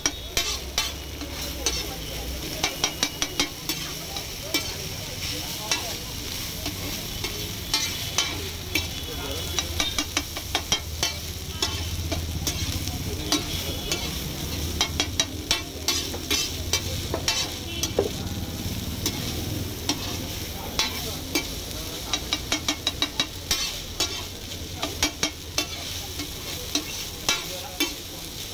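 Noodles stir-frying in oil on a large flat metal griddle: a steady sizzle, with a metal spatula scraping and clacking against the griddle in many sharp strikes, often in quick runs.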